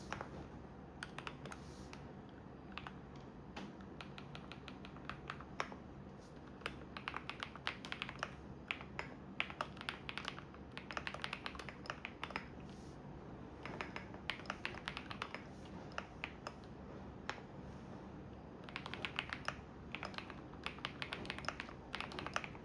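Typing on a computer keyboard: quick runs of key clicks in bursts with short pauses, over a steady low hum from a washing machine running.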